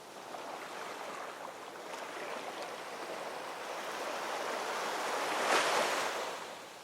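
Ocean waves rolling in: the surf noise builds gradually, a wave breaks loudest about five and a half seconds in, then the wash fades away.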